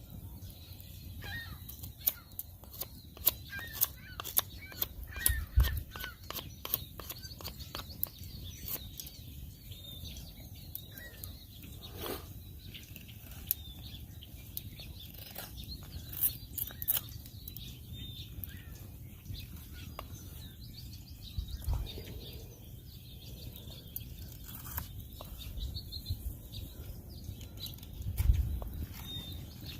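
Birds chirping faintly and intermittently, over a run of scattered sharp clicks and taps with a few dull thumps and a low steady rumble.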